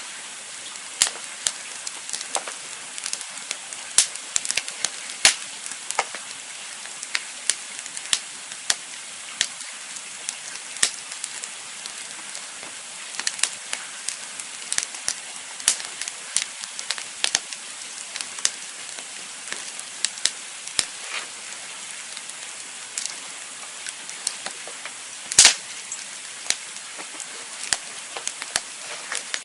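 Campfire crackling: a steady hiss with frequent, irregular sharp pops and snaps, the loudest pop coming late on.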